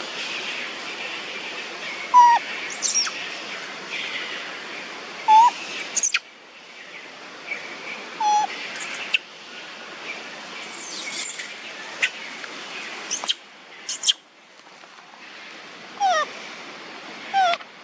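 Monkeys giving short, high-pitched squeaks and chirps, about a dozen quick calls that sweep in pitch, some as rapid trills, over a steady outdoor hiss.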